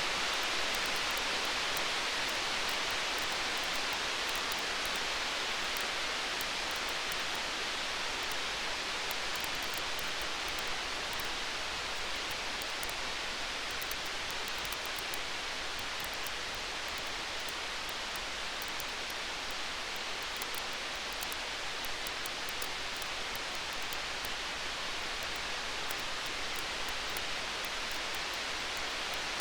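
Steady hiss of storm rain with fine, rapid crackles of a campfire scattered through it; no thunder in this stretch.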